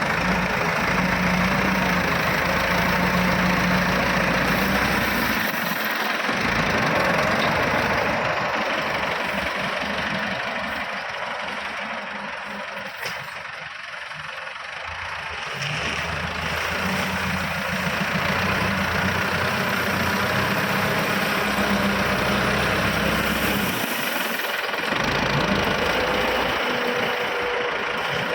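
Heavy tractor engine running continuously while working. Its steady low engine note drops out for a stretch after about five seconds and returns past the midpoint, then fades again near the end.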